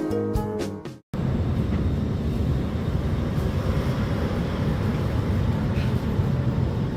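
Guitar music fades out in the first second. Then the steady low rumble of the inside of an Alstom Movia R151 metro train takes over.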